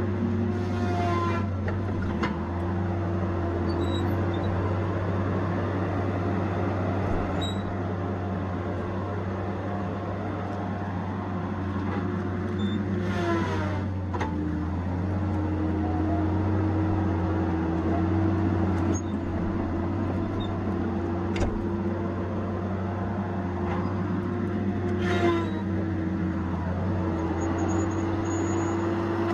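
Tigercat 870C feller buncher working: its diesel engine runs steadily with a constant whine above it. Three short hissing bursts come about a second in, about 13 seconds in and near the end, and after the middle one the whine drops in pitch, then slowly climbs back.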